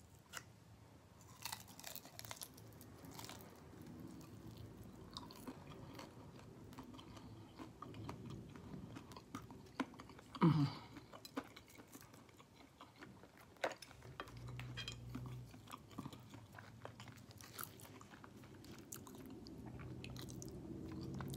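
Close-up chewing and biting of KFC fried chicken, with scattered small crunches and mouth clicks, and one louder brief mouth sound about halfway through.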